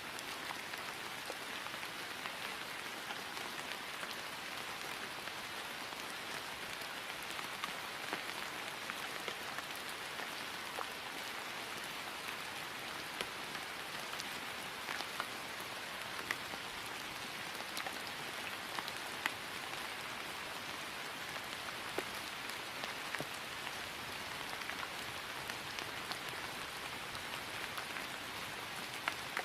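Steady rain falling on grass, a dense even hiss with the sharper taps of single drops scattered through it.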